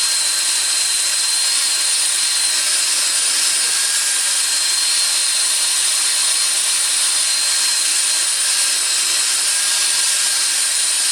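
Electric power tool running steadily at full speed, a hissing noise with a constant high-pitched whine, cutting off suddenly at the very end.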